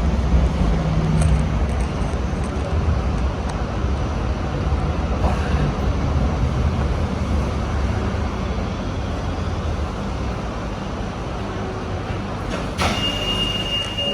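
Hong Kong Light Rail Phase III train running on the track, heard from inside the car: a steady rumble of wheels and running gear. Near the end, a sharp sound is followed by a steady high beep.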